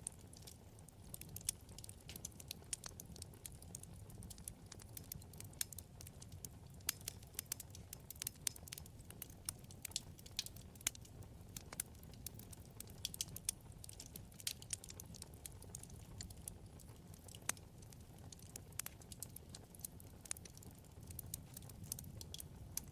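Wood fire in a fireplace crackling: many sharp irregular pops and snaps over a low steady rumble of the flames.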